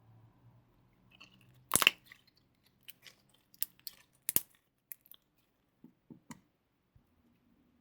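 Slime being pressed and worked by hand, giving off sharp pops and clicks: two loud pops, just before two seconds in and about four and a half seconds in, with smaller clicks between and after.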